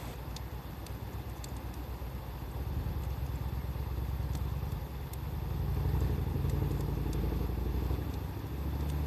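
A wood fire crackling with a few sharp pops, over a low engine rumble from a nearby motor vehicle. The rumble grows louder and is strongest about six seconds in.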